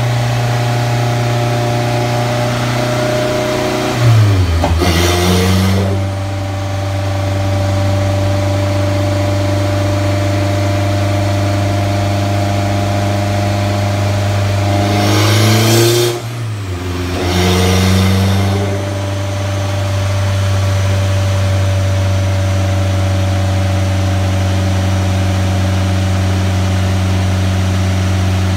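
Turbocharged KA24DET 2.4-litre four-cylinder of a Nissan 240SX running on a chassis dyno, held at a steady engine speed for long stretches. About four seconds in and again around sixteen seconds in, the engine speed dips and comes back with a brief loud rush of noise, then settles at a steady speed again.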